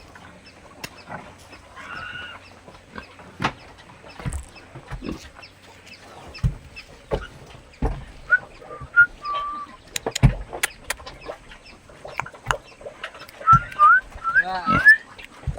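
Chickens clucking in short, rising calls, in two bursts, amid scattered knocks and clicks.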